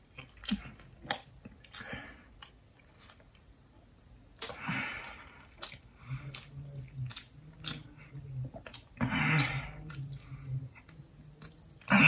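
A man chewing an oversized mouthful of food taken in one bite, with wet mouth clicks and smacks, a few heavy breathy puffs, and a low steady hum through the full mouth in the middle; the loudest puff comes at the very end.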